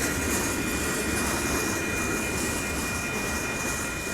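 Train cars rolling past on the rails in a steady rumble, with the grade crossing's WCH mechanical bell ringing continuously over it.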